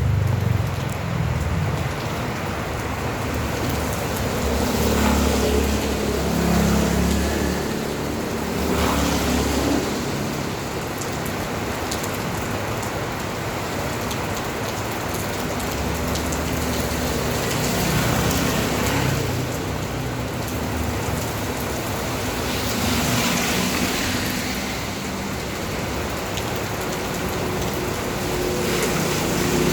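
Steady rain falling, with the low rumble of passing traffic rising and falling at times.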